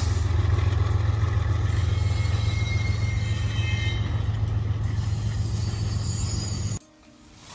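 Steady low rumble with a rushing hiss, cut off abruptly near the end.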